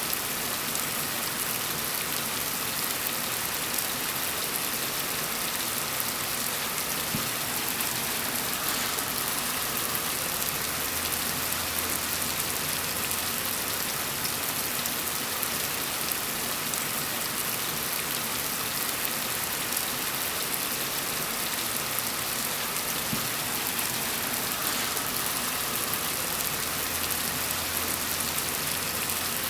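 Steady rain falling, an even, unbroken hiss of dense patter.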